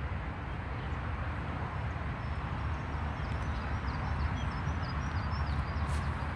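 A steady low rumble of outdoor noise, with a small bird singing a quick run of short high chirps from about three to five and a half seconds in.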